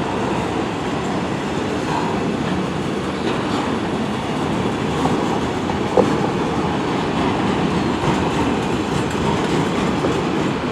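Long CN freight train's cars, largely empty autoracks, rolling past in a steady rumble of wheels on rail with clickety-clack. One sharp metallic clank about six seconds in.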